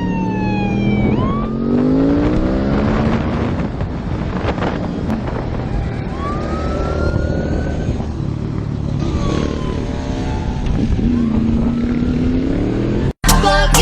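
Motorcycle engines revving and running by, their pitch rising and falling several times. The sound cuts off suddenly near the end.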